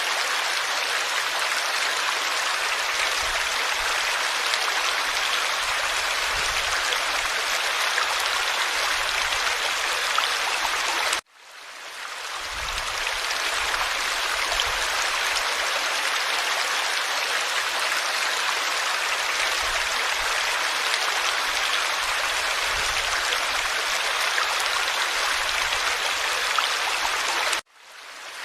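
Forest stream water running over rocks, a steady rushing babble. It cuts out suddenly twice, about a third of the way in and near the end, and fades back in each time.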